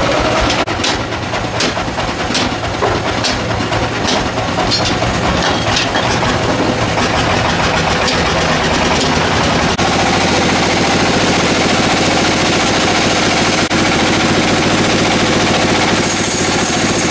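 Sawmill machinery running with a steady engine-like drone while sawing a dry teak log. A run of sharp clacks sounds over the first six seconds, and a high hiss joins in near the end.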